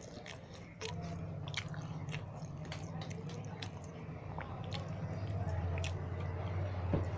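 Close-up chewing and mouth sounds of someone eating, many small sharp clicks and smacks. A steady low hum comes in about a second in.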